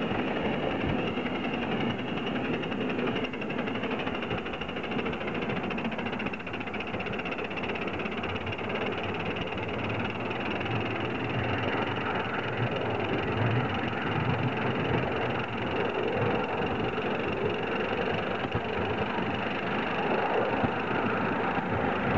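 3½-inch gauge live-steam model Prairie tank locomotive running steadily under steam with its regulator opened up, a continuous stream of exhaust and running noise.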